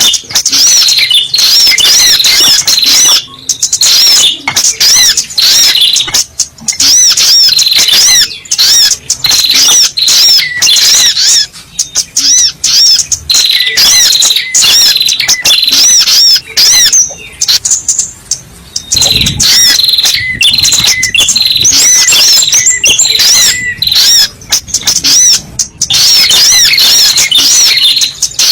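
Sogok ontong (spiderhunter) lure call: loud, rapid, high-pitched chirps repeated in runs of a few seconds with short breaks between them.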